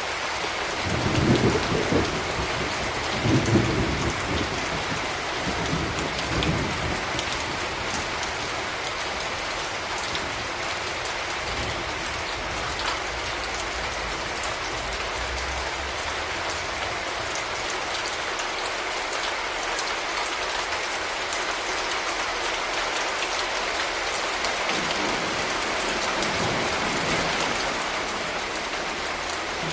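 Steady rain falling, an even hiss with scattered drop splatter. Low thunder rumbles twice, about one and three seconds in, and again more faintly near the end.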